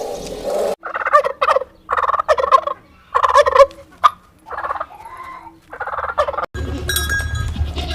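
Farm fowl calling: about six loud calls in a row, each under a second long, with short gaps between them.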